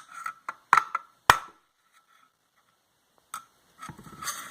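A tool tapping on a screwdriver wedged under the plastic edge of a vacuum motor housing, prying it apart: a few sharp taps, the loudest about a second in, then a pause, one more tap and some scraping near the end.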